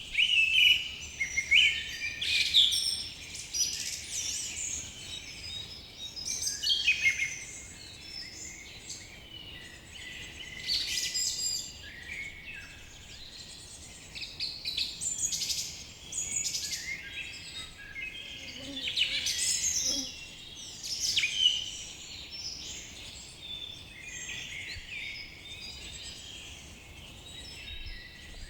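Several songbirds singing and calling at once in forest, a dense overlapping mix of chirps, trills and whistles that swells and thins in bursts, over a faint steady hiss.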